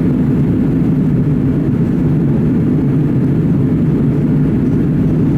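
Steady low roar of engine and airflow noise heard inside the cabin of an Airbus A330 climbing after takeoff.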